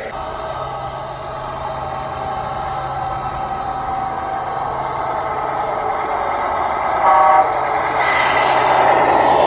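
Truck engine running steadily, with a short horn toot about seven seconds in and a loud air-brake-like hiss starting about a second later.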